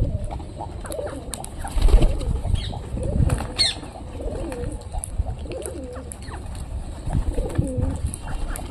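Birds calling at close range: low cooing calls repeated every second or so, with a few low thuds and a couple of brief higher squawks.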